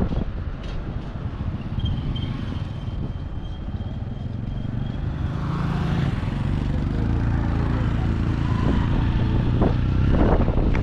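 Motor vehicle engine running steadily on the road, with wind buffeting the microphone.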